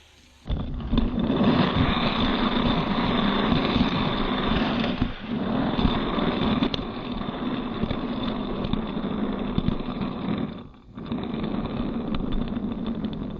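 Loud engine sound that starts suddenly and runs steadily, dropping off briefly twice before picking up again.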